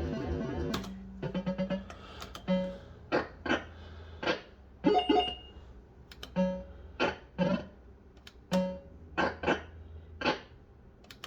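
Bell-Fruit Wild Cats fruit machine's electronic sound effects: a string of short bleeps and tones, with sharp clicks between them and a quick run of rapid pulses early on, over a steady electrical hum.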